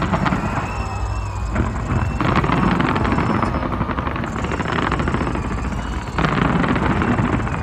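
Fireworks barrage: dense crackling and rapid bangs over a steady low rumble, with sudden louder surges about a second and a half, two seconds and six seconds in.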